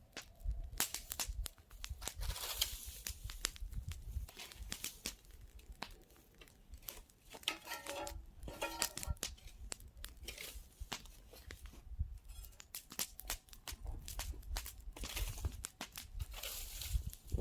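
Wood campfire crackling, with irregular sharp pops and snaps and stretches of hissing.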